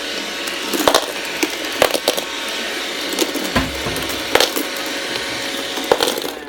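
iRobot Roomba robot vacuum running with a steady whir, broken by several sharp, irregular clacks of hard plastic knocking about.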